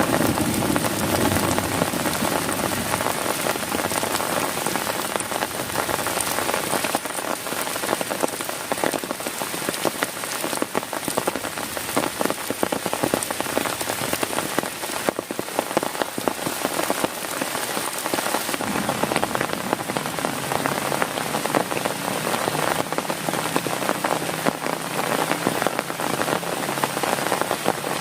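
Heavy rain falling steadily on a tent, a dense patter of drops with no letup. The low tail of a thunder rumble dies away in the first second.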